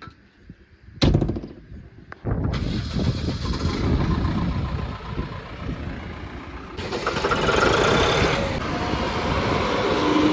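Tractor engine being cranked and catching: a short rattling burst about a second in, then the engine running steadily. It grows louder about seven seconds in.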